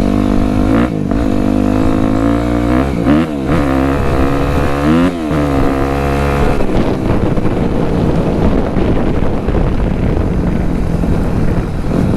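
Dirt bike engine running loud under its rider, its pitch dropping and climbing several times in the first half as the throttle is rolled off and on through the gears, then settling into a rougher, steadier drone.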